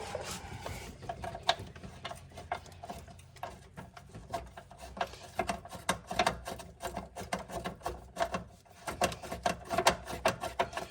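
Hand ratchet clicking in quick, uneven strokes, metal on metal, as a fastener is worked loose.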